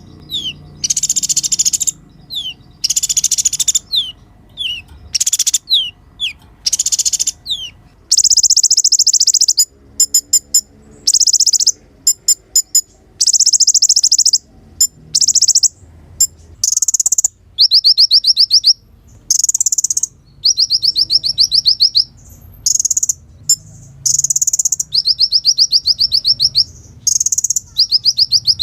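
A kolibri ninja (konin) sunbird singing: a run of high-pitched rapid trills and chattering phrases in short bursts with brief gaps, opening with quick falling whistled notes.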